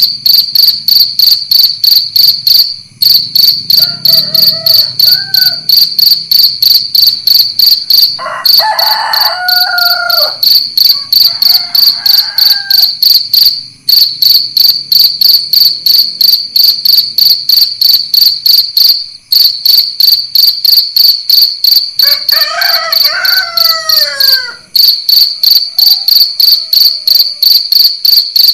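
Field crickets chirping loudly and steadily, a high-pitched pulsed chirp about four times a second with brief pauses every five or six seconds. Roosters crow several times in the background.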